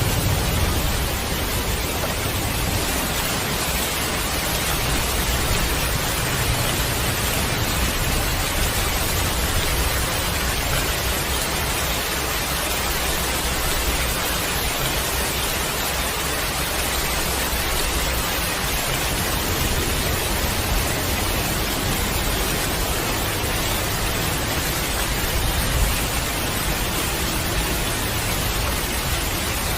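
Heavy rain falling in a steady, even hiss, with a low thunder rumble dying away in the first second.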